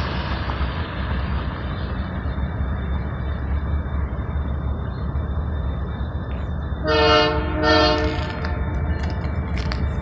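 Train passing with a steady low rumble, and two short blasts of a locomotive air horn about seven seconds in.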